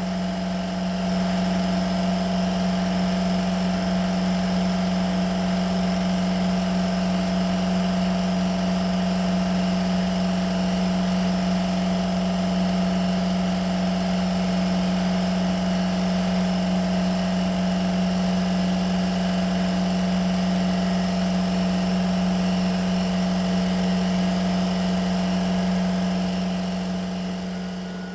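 A power tool's motor running steadily with a constant hum, fading out near the end.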